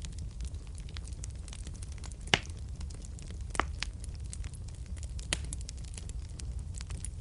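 Wood fire burning in a fireplace: a steady low rumble of flames under continual small crackles, with three louder sharp pops about two, three and a half, and five seconds in.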